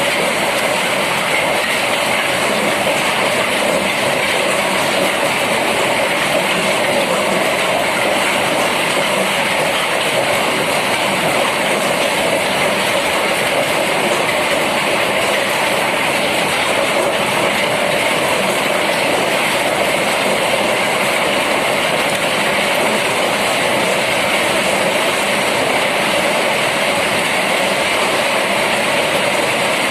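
Heavy rain pouring down in a storm, a steady unbroken downpour.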